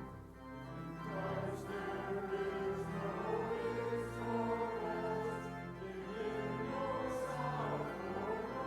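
Choir singing slow, sustained phrases, accompanied by a church organ holding low notes.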